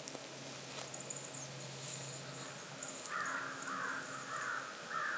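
A bird giving four harsh, raspy calls in quick succession, starting about three seconds in.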